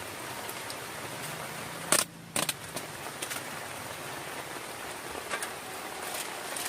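Steady hiss of heavy rain, with a loud sharp click about two seconds in, a brief dip in the rain noise right after it, and a few fainter clicks and taps later on.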